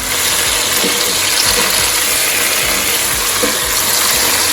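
Thick sauce sizzling loudly in a hot pan of butter and fried chicken, a dense steady crackle that starts suddenly as the sauce goes in.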